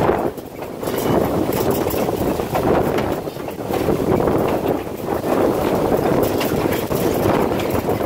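Moving passenger train rolling along the track: a steady rumble and rush that swells and eases every couple of seconds, with many sharp clicks from the wheels on the rails.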